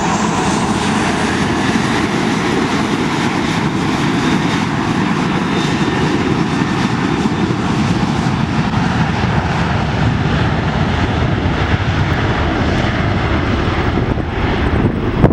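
Boeing 737-700 BBJ's CFM56-7B turbofan engines running at high power, a loud, steady jet roar that drops away in the last second.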